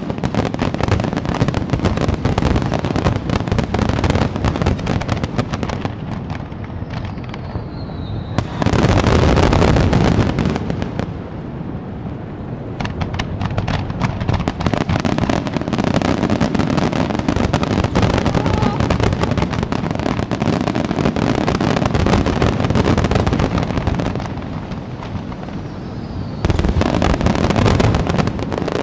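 Aerial fireworks bursting in a dense, continuous barrage of booms and crackling. The barrage swells loudest about a third of the way in and again near the end, each swell just after a brief falling whistle.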